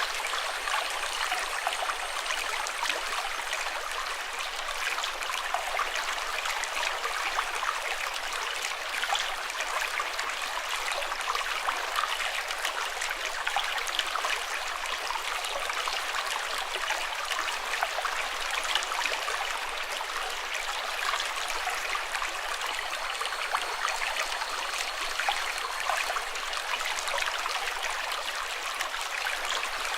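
Running water splashing and babbling in a steady, unbroken flow.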